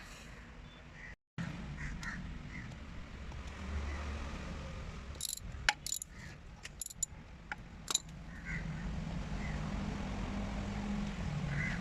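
Several sharp clicks and knocks, bunched between about five and eight seconds in, over a low steady rumble, with faint short bird chirps. The sound cuts out completely for a moment about a second in.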